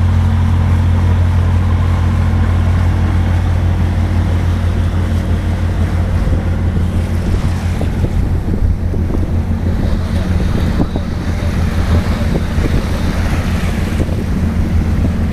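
A boat's engine running with a steady low drone, under wind buffeting the microphone and the rush of water. The wind gusts grow stronger about halfway through.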